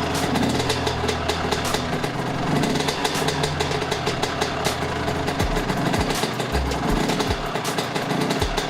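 Dirt bike engine running steadily with a rapid crackle. About five seconds in, a regular low beat of music joins it.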